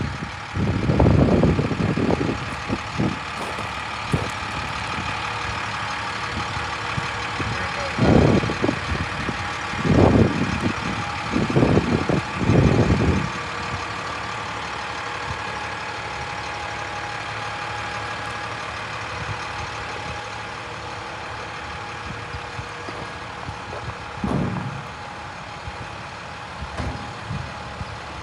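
Maxxforce DT diesel of a 2010 International 7400 utility truck running steadily, with a faint steady whine over it and several short, louder low rumbles.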